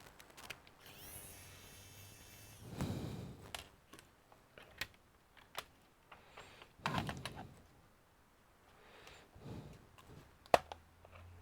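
Laptop parts being handled during repair: scattered plastic clicks and a few soft knocks, with one sharp click near the end.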